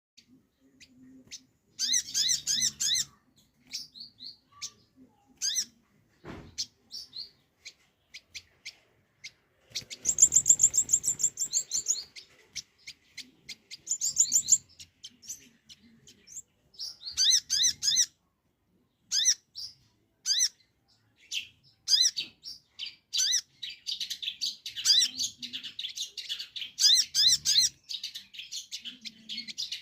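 A ruby-cheeked sunbird (sogon) singing: bursts of high, rapid chirps and trills separated by short gaps, with the loudest, densest trill about ten seconds in and near-continuous chirping over the last few seconds. There is a single knock about six seconds in.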